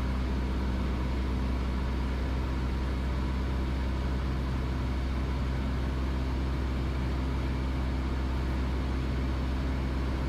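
Cessna 172S Skyhawk's Lycoming four-cylinder engine and propeller droning steadily in flight, heard inside the cockpit.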